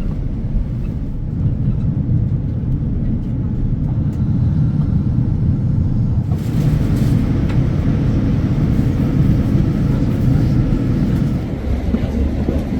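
Steady low rumble and hiss of a Boeing 787-9 taxiing after landing, heard inside the cabin. About six seconds in, a brighter hiss joins the rumble and carries on.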